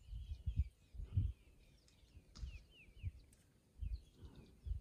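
Birds chirping over and over in short falling notes, over irregular low thumps and rustles close to the microphone.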